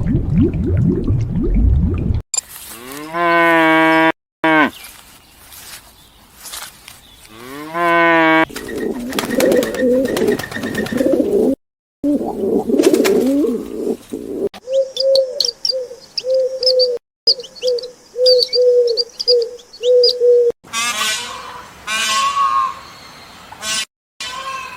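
A string of short farm-animal clips cut together. A cow moos twice, each moo rising in pitch, then pigeons coo in low repeated notes with small bird chirps above them, and a higher-pitched animal call comes near the end.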